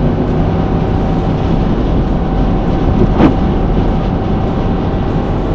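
Steady road noise inside a pickup truck's cabin while driving on a snowy highway: engine hum and tyre rumble. There is one short faint sound a little after three seconds in.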